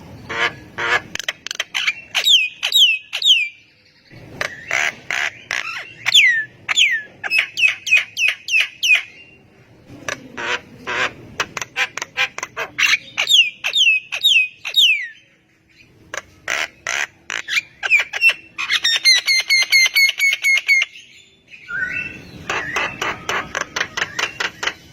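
Javan myna calling in phrases of a few seconds, separated by short pauses. Each phrase mixes rapid harsh clicks and squawks with short falling whistles. Near the end comes a stretch of quick, buzzy repeated notes.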